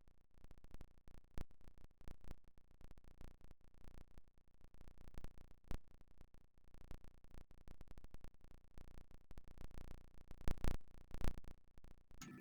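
Light, irregular clicks and knocks of glued wooden strips being handled and pushed into line, with a few louder knocks near the end.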